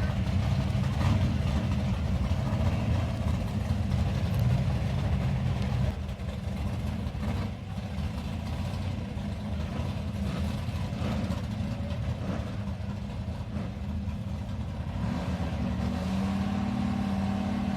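Vintage drag-race car engines running, with a loud low rumble that drops off about six seconds in; near the end a steady engine note holds at one pitch.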